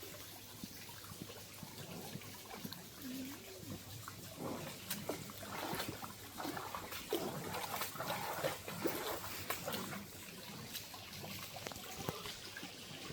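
Giant panda bleating in short calls now and then, with scuffing and rustling in between.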